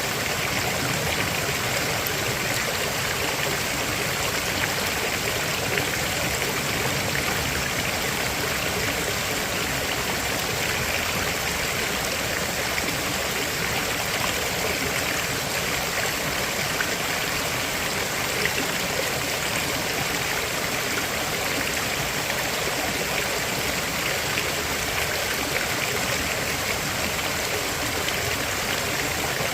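River water flowing and babbling over rocks, a steady rushing with light gurgles.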